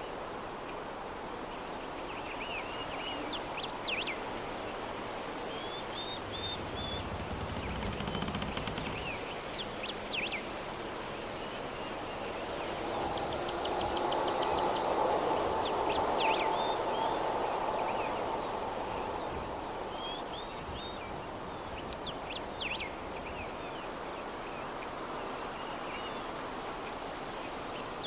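Soft, steady breeze with small birds chirping now and then, one call coming back about every six seconds. The breeze swells for a few seconds around the middle.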